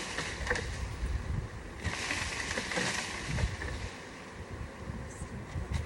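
Wind buffeting the microphone: an uneven rumbling rush with a broad hiss and a few small knocks.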